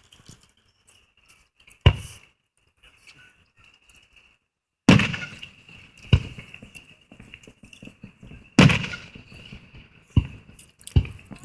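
Aerial firework shells bursting: about six loud booms at uneven intervals, each trailing off in a rolling echo.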